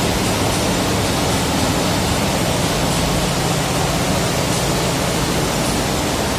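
A ship's machinery running with a steady, loud rushing noise and a constant low hum.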